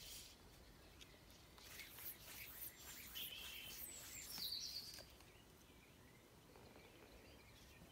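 Faint birdsong: a few short, high chirps about three to five seconds in, over quiet riverside ambience.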